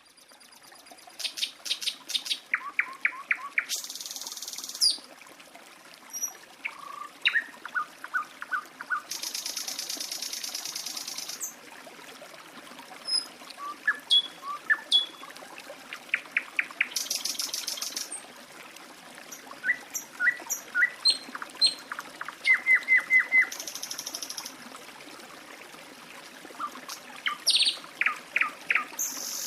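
Birds singing over a trickling stream: runs of short repeated chirps and several high, buzzing trills a second or two long, with steady water running underneath.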